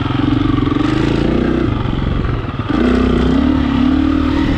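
Dirt bike engine running while being ridden, with the note shifting and growing louder as the throttle opens about two and a half seconds in.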